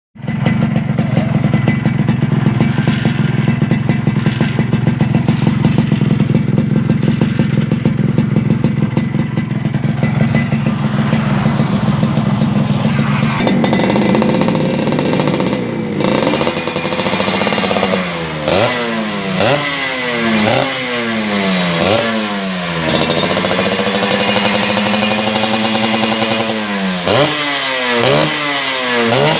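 Yamaha RX-King two-stroke single-cylinder motorcycle engine running through a racing exhaust. It runs steadily at first, then partway through it is revved in quick repeated blips, the pitch rising sharply and dropping back each time, with one longer rev in between.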